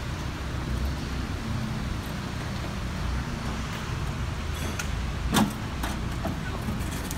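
Steady hiss of heavy rain with a low rumble, and a few sharp knocks about five seconds in, the loudest a single clunk, from someone handling things in a pickup truck bed.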